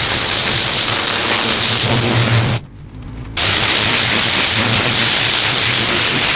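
Pressure washer spraying a parking space: a loud, steady hiss of the jet with a low hum underneath. The spray cuts out for under a second about two and a half seconds in, then resumes.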